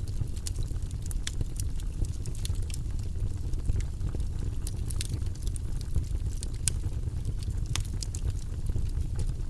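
Wood logs burning in a fireplace: the flames make a steady low rumble, with frequent sharp crackles and pops at irregular intervals.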